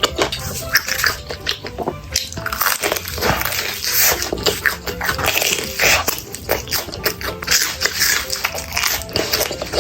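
Close-miked eating sounds: repeated bites and chewing, with background music underneath.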